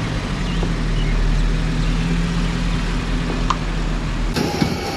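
A car engine running at a steady pitch, with road noise around it; the sound changes abruptly near the end.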